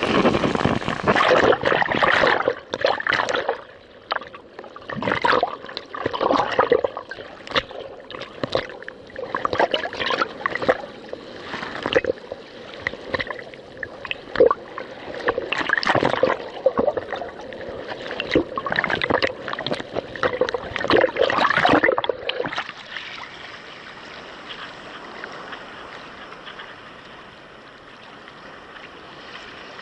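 Water sloshing and splashing against a kayak's hull in choppy, rebounding waves, one irregular splash after another. About three-quarters of the way through, the splashing stops and gives way to a softer, steady wash of water.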